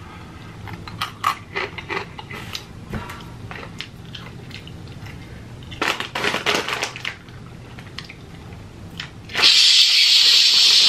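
Crunching of Barcel Stix corn snack sticks being chewed, in two short spells of sharp crunches. About nine and a half seconds in, a loud, steady hissing noise starts and holds.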